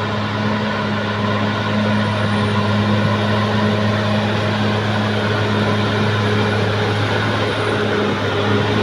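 Caterpillar D6R XL bulldozer's diesel engine running steadily at constant revs, a loud, even hum.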